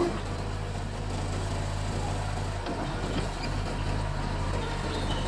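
Mitsubishi bulldozer's diesel engine running steadily at a low, even pitch.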